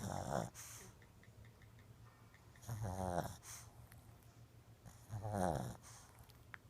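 Shih Tzu snoring in its sleep: three pitched, rattling snores, one with each breath, about two and a half seconds apart.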